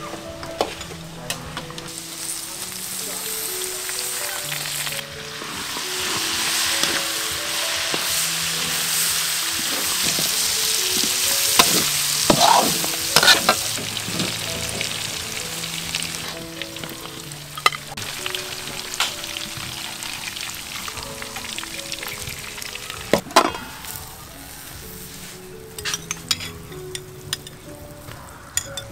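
Chopped goose meat stir-frying in a hot wok, sizzling in oil, with a metal ladle scraping and knocking against the pan. The sizzle is loudest in the middle and dies down toward the end.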